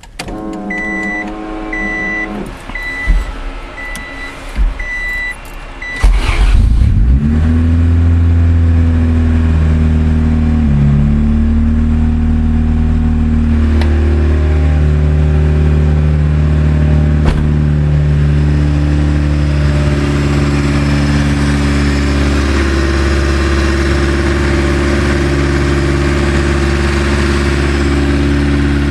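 A repeating high electronic beep, then the turbocharged Honda D16Z6 four-cylinder cranks and catches about six seconds in on its first start after the build. It then runs at a steady idle, its pitch shifting slightly as it settles.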